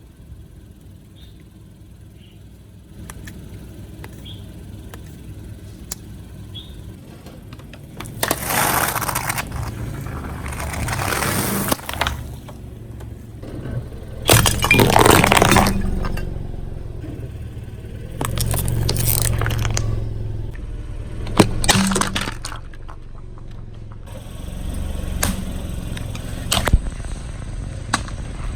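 A car tyre rolling over and crushing brittle objects: several separate bursts of crunching and cracking with sharp snaps, over the low rumble of the car.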